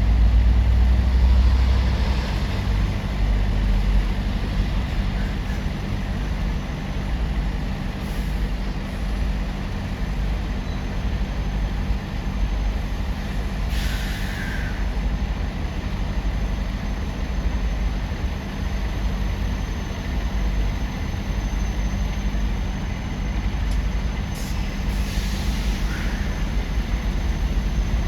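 Heavy truck diesel engines rumbling steadily, with short air-brake hisses about 14 seconds and 25 seconds in.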